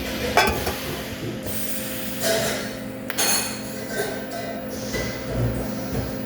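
Workshop noise: a steady electrical hum with scattered metal clinks and knocks, a sharp one about half a second in.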